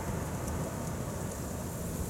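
Tohoku Shinkansen train running, a steady rushing noise with a low rumble.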